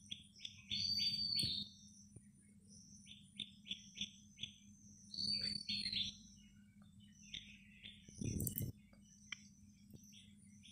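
A small bird chirping in quick runs of three or four short notes, with a higher arched call in the runs, over a faint steady low hum. A single soft knock comes past the middle.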